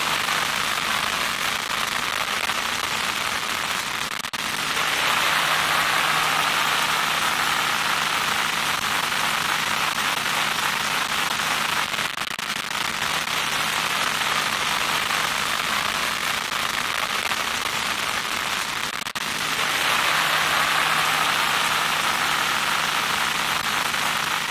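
Loud static noise: a steady hiss with a low steady hum underneath. It dips briefly three times, and between the dips the hiss turns harsher and brighter for a while.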